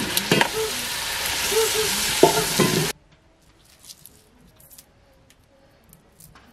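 Meat, tomatoes and onions sizzling as they fry in a metal pot, stirred with a wooden spoon that knocks against the pot a few times. The sizzling cuts off suddenly about three seconds in, leaving near quiet with a few faint clicks.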